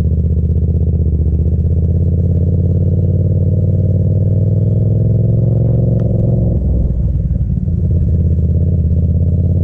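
Yamaha FZ-07's parallel-twin engine running steadily, with a sharp click about six seconds in, after which the engine note wavers and shifts in pitch.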